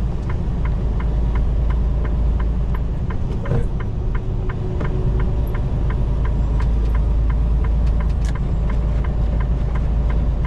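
Steady low engine and road rumble inside a semi-truck's cab, with an even, rapid ticking about three times a second running over it.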